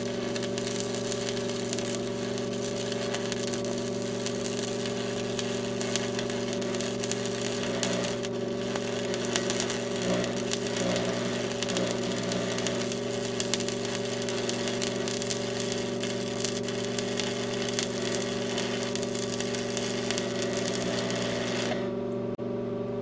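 Arc welding: a steady crackle and sizzle from the weld arc over the welder's constant hum. The crackle cuts off near the end as the bead is finished, and the hum carries on.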